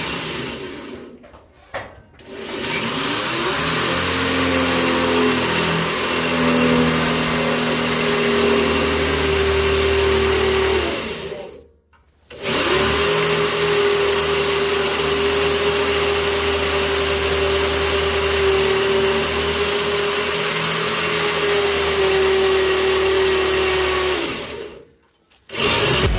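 A small corded electric motor tool run twice: each time it spins up with a rising whine, runs at a steady pitch, then winds down. The first run lasts about eight seconds, and after a brief pause the second lasts about twelve.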